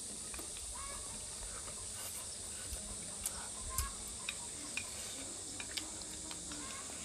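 Close-up eating sounds: scattered soft clicks and ticks of chewing over a steady hiss.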